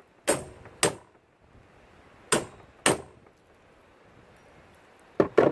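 A hammer striking a manual (hand) impact driver set in a rusted screw on a brake fluid reservoir lid, to shock the seized screw loose. Sharp metallic clangs come in three pairs, six strikes in all, the last pair quicker, near the end.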